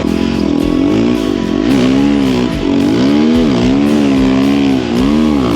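Dirt bike engine revving up and down repeatedly under shifting throttle while riding through snow.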